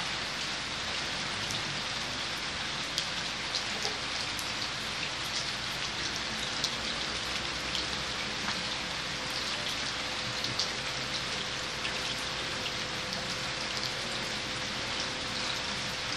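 Rain falling on a surface: a steady hiss with scattered sharp drop ticks. A faint steady hum joins it about halfway through.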